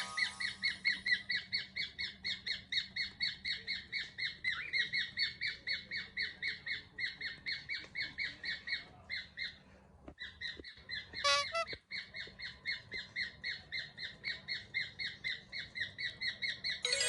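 Cockatiel chirping in a fast, even series of short, high chirps, about four a second. The chirping breaks off briefly past the middle, and then comes one sharper, louder call before the series resumes.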